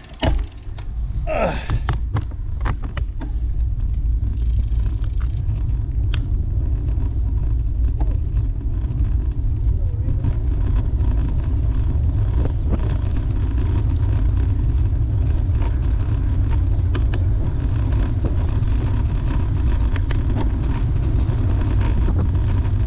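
Steady low wind rumble on the microphone mixed with tyre and road noise from a bicycle riding at speed. It builds over the first few seconds and then holds steady, with a few light clicks near the start.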